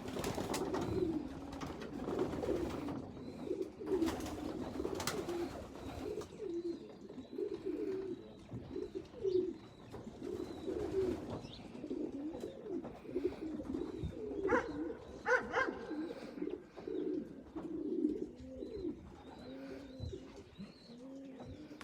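Racing pigeons cooing over and over, several birds overlapping, with a few sharp taps in among the calls.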